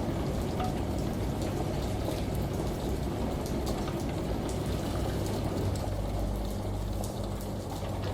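Steady rain with scattered drop ticks, over a low steady hum.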